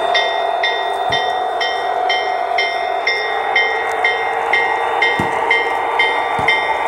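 HO-scale model diesel locomotive's DCC sound decoder playing the locomotive bell, ringing steadily about twice a second over the steady drone of the diesel engine sound. A few soft clicks come through underneath.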